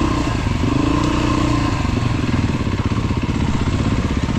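Dirt bike engine running at a low, steady speed with a fast, even pulse.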